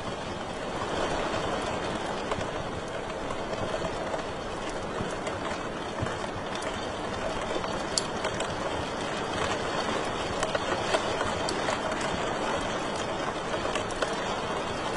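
Wood fire in a fireplace crackling steadily: a dense bed of small crackles and hiss with a few louder, sharper pops in the second half.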